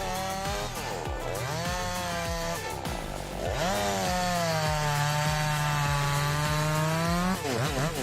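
Chainsaw engine cutting wood, its pitch dropping as it loads in the cut and climbing again a couple of times, then holding a steady high whine for several seconds from about halfway.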